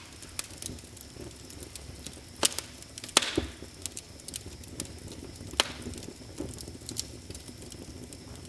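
Wood fire crackling in a fireplace: a constant run of small sharp crackles, with a few louder pops, a cluster of them about a third of the way in and another past halfway.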